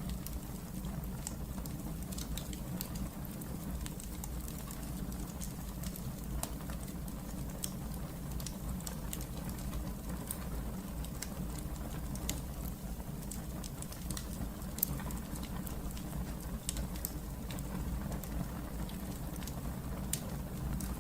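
Wood fire in a fireplace burning steadily, a low rush of flames with frequent small sharp crackles and pops scattered throughout.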